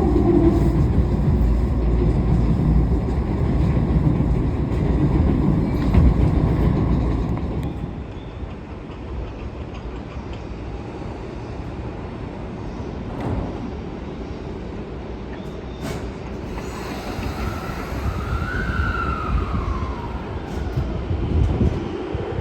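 Running noise inside a Toei 10-300 series train car: loud wheel and track rumble that eases off about eight seconds in. Near the start the Mitsubishi IGBT-VVVF inverter whine falls in pitch, a tone briefly rises and falls around three-quarters of the way through, and near the end the inverter whine rises again as the train powers up.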